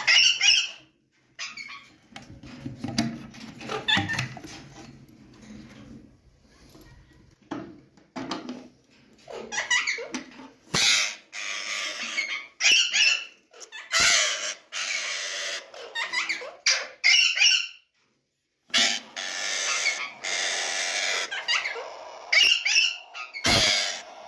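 Alexandrine parakeets giving harsh, repeated screeching calls in bursts, with short gaps between them and a brief silent break a little past the middle.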